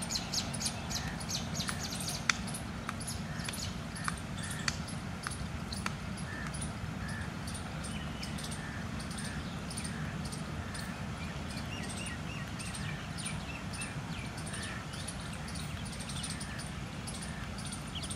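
Many birds chirping, with one bird repeating a short call about once a second, over a steady low outdoor rumble. A few sharp clicks come in the first few seconds, the loudest about two seconds in.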